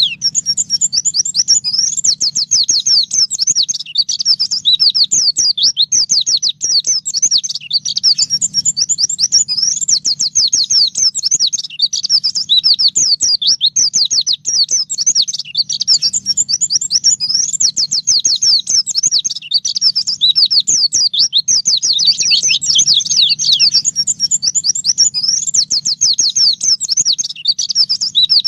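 White-eye (pleci) singing continuously in fast, high, sweeping chirps and trills, the rapid 'nembak' style used for song-training recordings. A faint low hum runs underneath.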